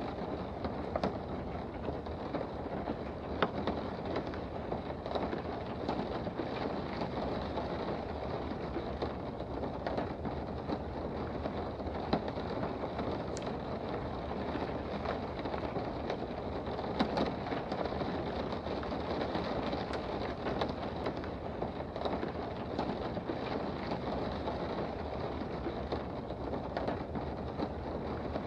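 Steady rain heard from indoors, an even hiss with now and then a sharper tap of a drop.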